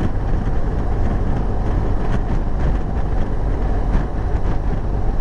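Steady wind rush and the BMW R1200GS's flat-twin engine running at road speed, heard through a motorcycle helmet microphone.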